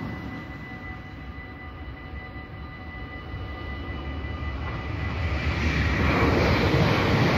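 Level-crossing warning bells ringing steadily while a car drives past at the start. From about five seconds in, an NS Sprinter Nieuwe Generatie electric train approaches and passes over the crossing, its rumble growing to become the loudest sound.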